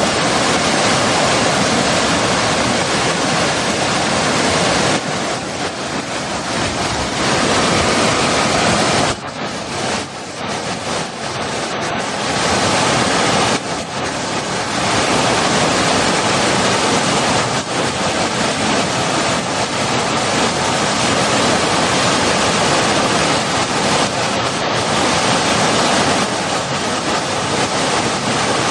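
Fast-flowing water rushing steadily, a dense hiss with no pitch, easing off a little for a few seconds twice in the first half before coming back full.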